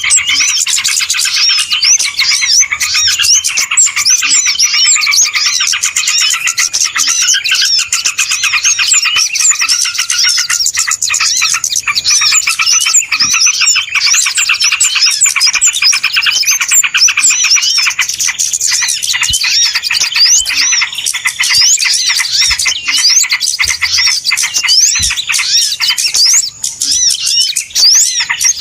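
Dense, noisy chorus of many small birds chirping and twittering over one another without a break: a bird-lure recording (suara pikat) made to draw wild birds in.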